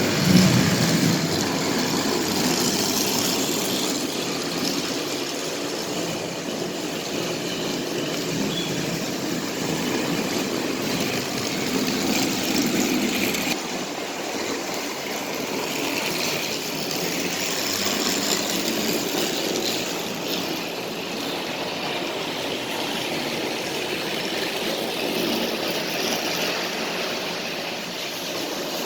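Battery-powered motorized toy train engines running steadily along their track, pulling coupled push-along engines, with a continuous mechanical whirr that swells and fades a little as they go round.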